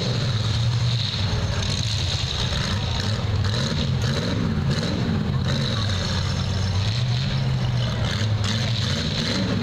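Several demolition derby cars' engines running together, revving up and down, with a few short knocks.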